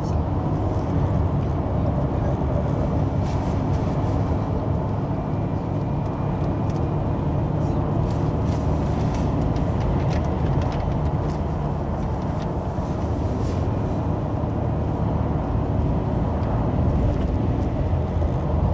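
Mitsubishi Zinger running, a steady low rumble with a faint thin high whine that comes and goes. The whine is the abnormal electrical-current noise the owner is recording.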